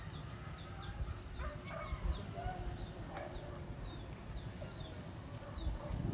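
Wild birds calling: short, high chirps that fall in pitch come in quick runs, with other lower calls between them, over a steady low rumble.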